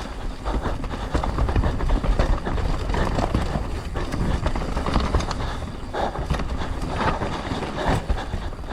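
Mountain bike descending a rough trail at race speed: tyres rolling over dirt and rocks, with rapid clattering knocks from the bike's chain and frame and a steady low rumble of wind on the microphone.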